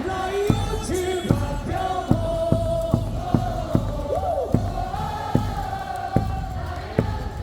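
Baseball crowd singing a cheer song in unison over amplified stadium music, with sharp beats about two a second.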